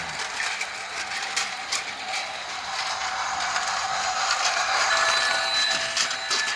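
Battery-powered toy train running: a small electric motor whirring with gear clatter and scattered clicks.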